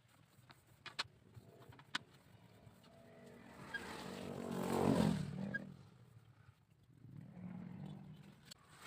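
A motor vehicle passing by, its engine swelling to a peak about five seconds in and then fading, with a weaker swell later. Two sharp clicks come early on.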